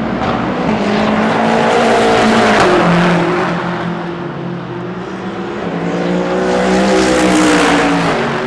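DTM GT3 race car engines at speed on track, with engine notes rising and falling as cars go by. The sound is loudest about two and a half seconds in and again near the end.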